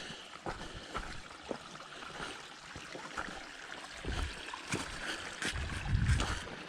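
A hiker's footsteps on the trail, roughly two steps a second, over a steady rushing hiss. Wind buffets the microphone twice, in low rumbles about four and six seconds in.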